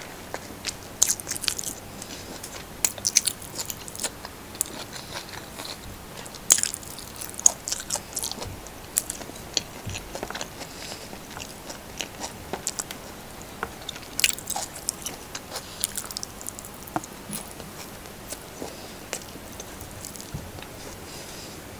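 Close-miked chewing of hand-fed fried rice with corned beef and salted egg: irregular mouth clicks and soft crunches.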